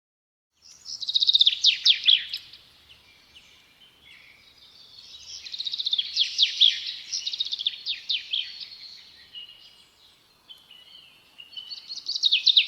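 Small songbird singing in three bouts of rapid, high, falling notes. The first bout begins about a second in, a longer one comes in the middle, and another comes near the end.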